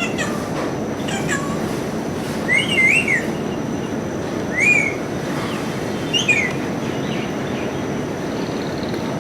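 A parrot giving short, high calls, about five of them spread over the stretch, each a quick rise and fall in pitch, over a steady background hiss.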